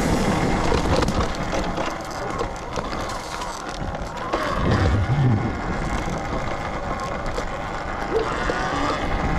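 Ride sound of a Talaria Sting MX3 electric dirt bike: an even, noisy rush of wind and tyre noise, with no engine note.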